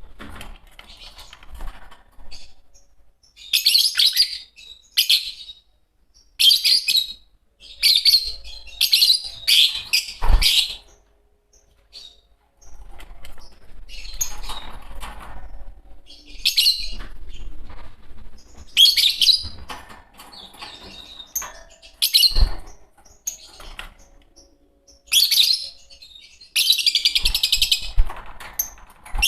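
A pair of Fischer's lovebirds chirping shrilly in repeated bursts of a second or two, with pauses between. Two dull thumps come partway through.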